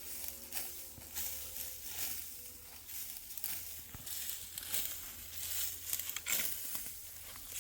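Irregular dry rustling and crackling: many short scratchy sounds in quick succession.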